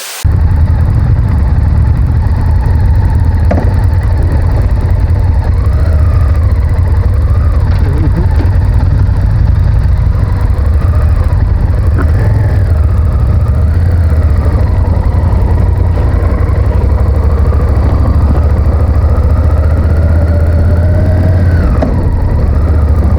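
Honda VTR1000F's 90-degree V-twin engine running under way, heard under heavy wind rumble on the microphone. The engine note rises and falls several times with the throttle.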